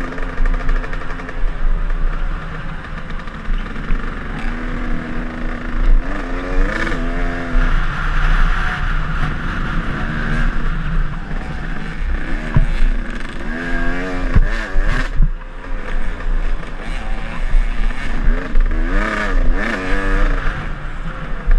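KTM enduro dirt bike engine revving up and down repeatedly while riding, its pitch climbing and dropping every few seconds, with occasional knocks and rattles.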